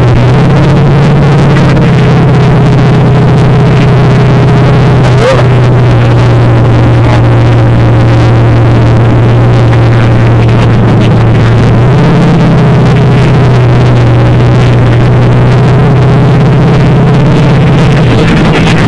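Monster truck engine running, very loud, with a steady drone heard from a ride on the truck. The engine pitch steps up about two-thirds of the way through and drops back near the end, with one sharp knock about five seconds in.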